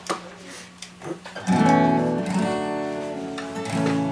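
Acoustic guitar strumming the opening chords of a song. A loud chord comes in about a second and a half in and rings on, and another strum falls near the end.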